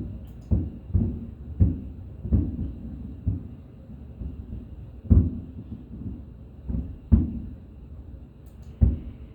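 Fireworks shells bursting overhead in a string of deep booms, about nine at uneven intervals, each dying away briefly. The loudest come about five and seven seconds in.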